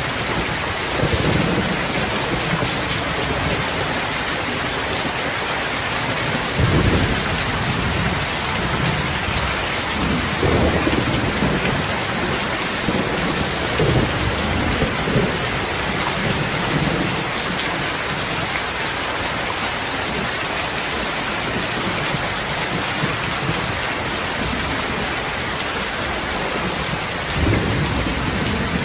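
Heavy, steady rain with low rolls of thunder swelling up several times.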